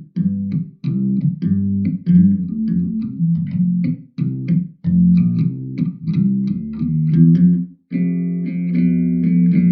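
Outro music: an electric bass guitar playing a plucked riff of short repeated notes. After a brief break near eight seconds in, the notes are held longer.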